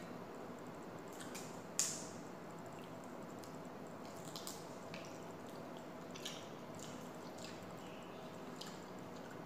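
Close-up eating sounds: scattered small wet clicks and smacks of chewing and handling food, one sharper click a little under two seconds in.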